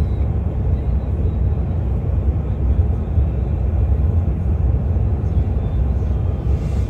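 Steady low rumble of a vehicle's engine, heard from inside the vehicle.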